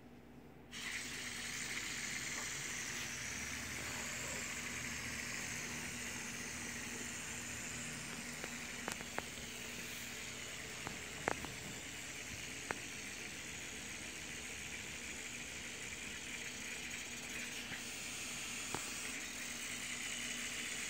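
Air rushing out of a balloon through a small cardboard impulse turbine, a steady hiss with a faint low hum under it, starting about a second in. A few light clicks sound along the way.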